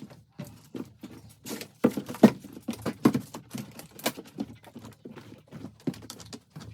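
A rapid, irregular series of knocks and taps, loudest in the middle.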